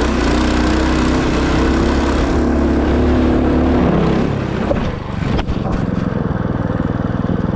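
Minibike's small single-cylinder engine running hard under throttle, loud and close. Its pitch shifts about four seconds in, and a sharp knock follows a little over a second later.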